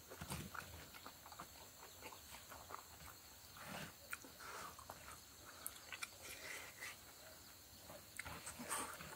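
Soft chewing and lip-smacking of a man eating rice and pork with his hands, with small clicks and rustles of fingers gathering sticky rice off a banana leaf.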